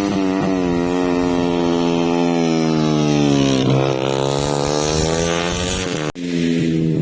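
Motorcycle engine running hard, its pitch slowly sinking and rising with a brief dip and recovery in the middle like a gear change. It cuts off abruptly about six seconds in and is replaced by another steady engine note.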